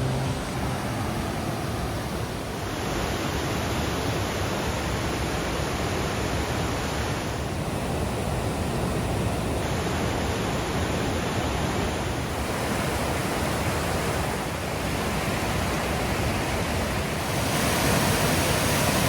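Steady rush of water from a snowmelt-swollen waterfall, a full, even hiss with no rhythm. Its brightness changes a few times, about three seconds in, around the middle and again near the end, getting brighter near the end.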